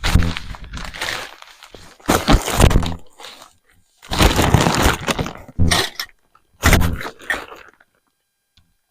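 Gear being handled and packed into a storage container: several bursts of clattering and rattling with short pauses between.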